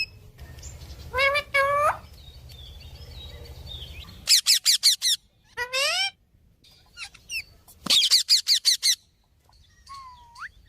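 Rose-ringed parakeet (Indian ringneck) calling: shrill, repeated screeches. Two quick runs of about five or six short calls come near the middle and toward the end, with single calls in between.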